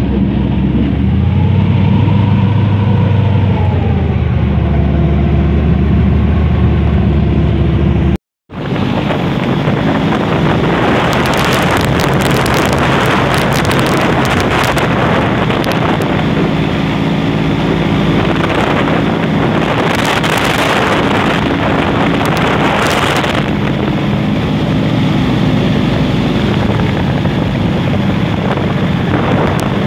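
Airboat engine and propeller running steadily, with wind gusting over the microphone. The sound cuts out for a moment a little over eight seconds in.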